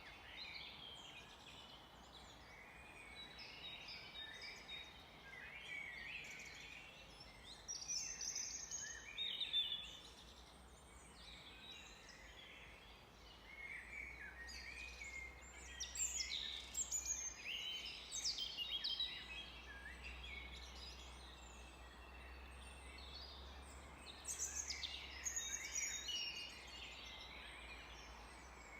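Several songbirds singing and calling together in a forest: overlapping chirps, whistles and trills of different pitches, coming in bunches. The busiest bursts are about eight seconds in, from about sixteen to nineteen seconds, and around twenty-five seconds.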